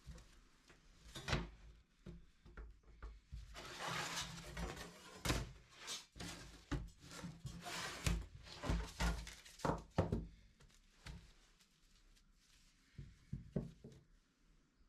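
Irregular knocks and thunks with short rustles between them, busiest in the first ten seconds and thinning out after.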